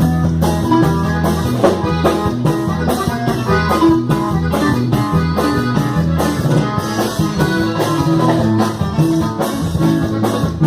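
Instrumental break of a band song, with no singing: guitar over bass and a steady drum beat.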